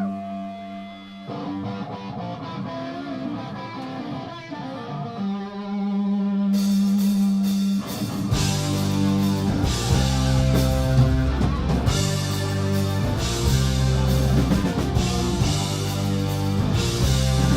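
Live rock band playing: electric guitar alone at first, cymbals joining about six seconds in, then the full band with drums and bass coming in hard about eight seconds in.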